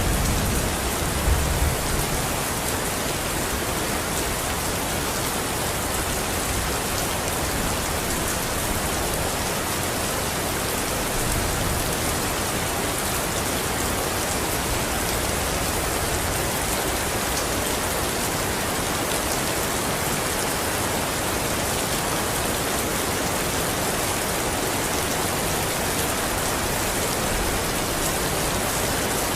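Steady, even rain falling and hissing on surfaces. In the first two seconds a low thunder rumble dies away.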